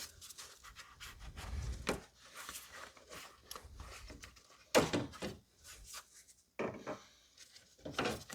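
Plastic engine-bay cowl trim and its clip being worked loose by hand: scattered rubbing and small clicks, with a louder knock about five seconds in.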